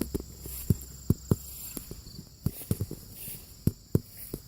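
Footsteps walking outdoors, a dozen or so uneven steps, over a steady high-pitched insect trill.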